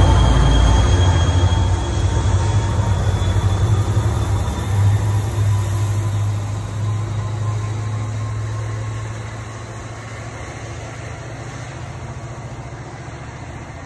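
Diesel locomotive at the rear of a departing commuter train passing and pulling away, its low engine drone and wheel noise fading as the train recedes. About nine seconds in it drops to a faint steady background hum.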